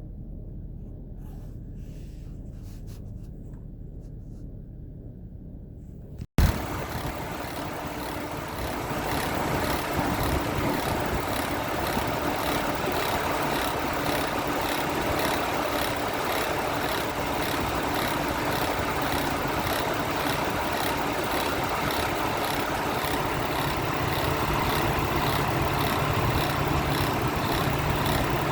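2006 Chevrolet Trailblazer's 4.2-litre straight-six idling, with its alternator giving off a whirring rattle that pulses in a quick, even rhythm: the sign of the alternator pulley's mechanical failure and wobble. It starts as a faint low rumble, then jumps suddenly louder about six seconds in.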